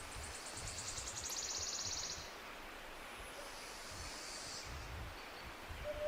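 Forest songbirds singing: a rapid, high trill that stops about two seconds in, then another high song phrase, over faint background rustling. Near the end a steady mid-pitched tone comes in.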